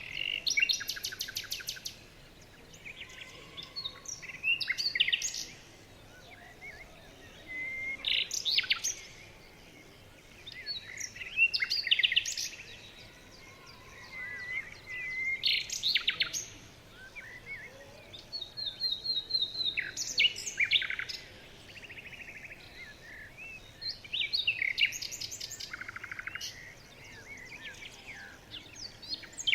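A songbird singing short, high phrases with rapid trills, one phrase about every four seconds, with fainter chirps between them.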